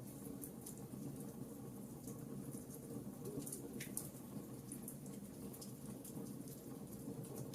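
Wood fire burning in a fireplace: a steady low rumble of flames with scattered sharp crackles and pops from the logs, one stronger pop about four seconds in.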